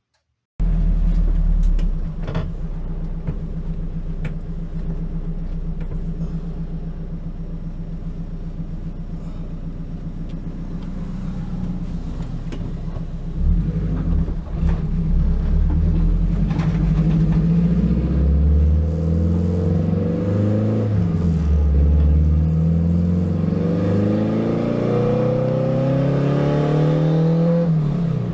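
Turbocharged Honda K20 inline-four in an EK Civic race car running under way, cutting in about half a second in. Its note holds fairly steady at first, then in the second half rises and drops again and again as it accelerates hard and shifts.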